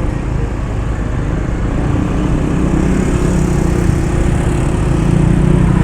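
Motor vehicle engine running steadily in slow traffic, with a low hum that grows a little louder about two seconds in, over road noise.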